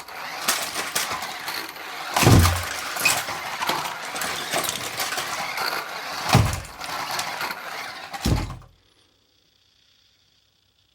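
Remote-control monster truck driving slowly over LEGO figures: plastic bricks clattering and crunching under the tyres, with three heavy thumps. The sound cuts off abruptly about two-thirds of the way in.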